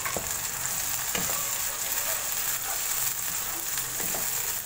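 Onion-tomato masala with garlic-ginger paste and whole spices sizzling in hot oil in a wok as it is fried down, with a wooden spatula stirring through it in a few soft strokes.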